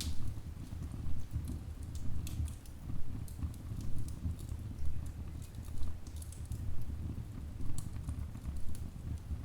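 Wood fire burning in a fireplace: irregular small crackles and pops over a low, steady rumble of the flames.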